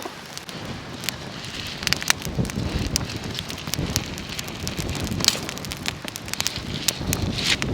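Rain falling steadily, with many sharp pops and crackles, and wind buffeting the microphone from about two seconds in.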